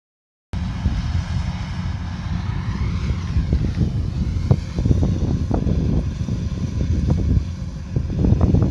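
Kubota DC105X combine harvester running, a steady deep engine drone, with short knocks and rattles from about halfway through.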